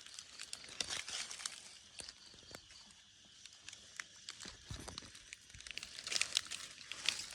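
Rustling and crackling of dry vegetation being handled or pushed through, with irregular sharp snaps. The busiest bursts come about a second in and again near the end.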